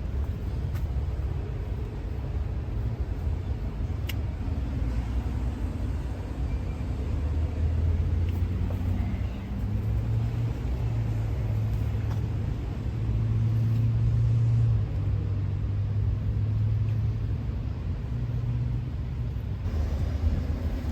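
Truck engine running, a steady low rumble whose pitch steps up and down a few times in the second half.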